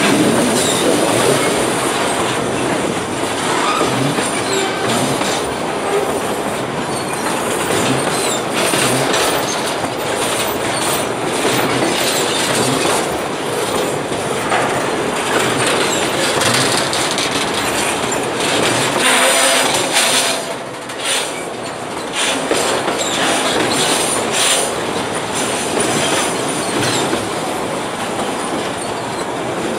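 Loaded tank cars of a freight train rolling past close by on metre-gauge track: a steady rumble of steel wheels with clicks over the rail joints and high wheel squeal at times.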